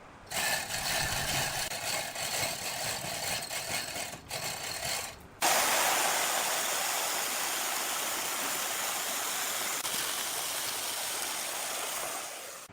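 Woodworking power tools running. An uneven machine noise lasts about five seconds, then a louder, steady rushing noise starts suddenly and fades out near the end.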